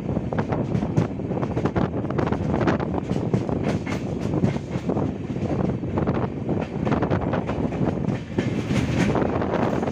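Passenger train running along the track, heard from on board: a steady rumble with a continual run of knocks from the wheels passing over the rails.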